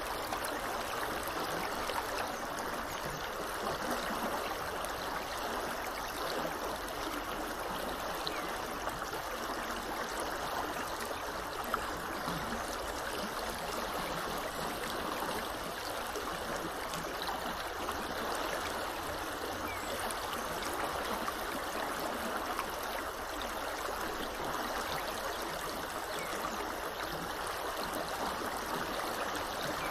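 Small river flowing steadily over its bed, an even rushing and trickling of water.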